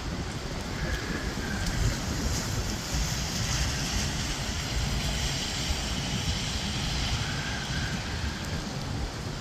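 Steady rain with wind rumbling on the microphone, and a high hiss that swells and fades between about two and six seconds in.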